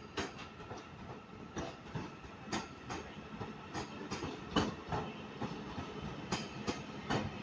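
A Northern passenger train moving through the station, its wheels giving irregular clicks and knocks over the rail joints and points above a low steady hum.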